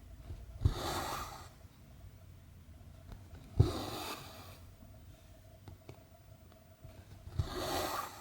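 Needle and cotton thread pulled through 14-count cross-stitch canvas, three times: each stitch gives a sharp tick as the needle pokes through, then a swish of about a second as the thread is drawn tight.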